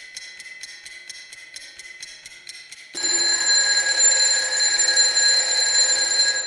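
Electronic alert sound: a fast ticking, about five ticks a second, over a faint steady tone, then about three seconds in a loud steady chord of several tones that cuts off near the end.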